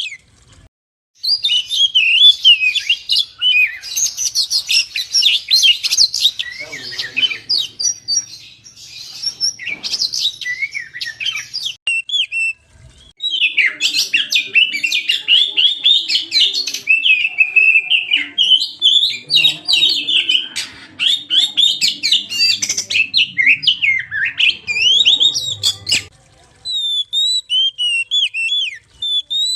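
Oriental magpie-robin (kacer) singing a fast, varied run of whistles and chirps, used as a lure song. The song breaks off briefly about a second in and again around the middle.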